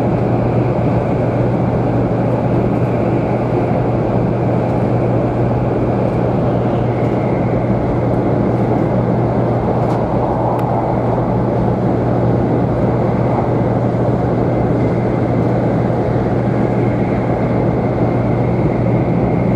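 Steady running noise inside a 500-series Shinkansen car travelling at speed: an even rumble with a constant low hum.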